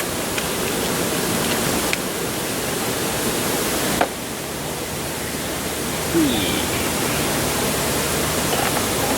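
Steady rushing noise, even across all pitches, with a few light clicks and one sharp click about four seconds in.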